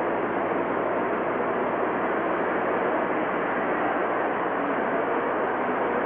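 Flowing water rushing steadily, an even hiss-like noise without breaks.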